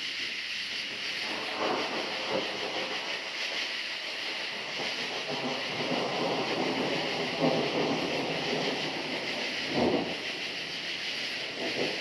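Thunder rolling in several swelling rumbles, the strongest about ten seconds in, over a steady chorus of crickets.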